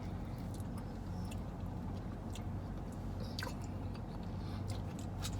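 Mouth sounds of a person eating mashed potatoes and gravy, with soft wet smacks and small clicks now and then over a steady low hum.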